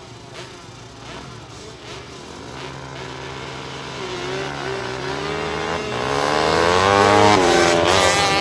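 A pack of 250 cc flat track racing motorcycles accelerating away from the start, their engine notes repeatedly climbing and dropping in pitch. Faint at first, they grow steadily louder from about three seconds in and are loudest near the end.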